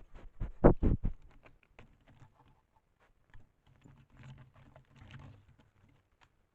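Coatis scuffling and rummaging close to a trail camera: a quick run of clicks and knocks, loudest about a second in, then fainter scratching and scuffling.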